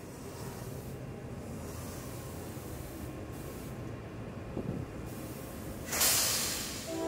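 Train running past on the rails with a steady rumble and hiss. About six seconds in comes a brief, loud burst of hissing, and a multi-tone train horn starts sounding right at the end.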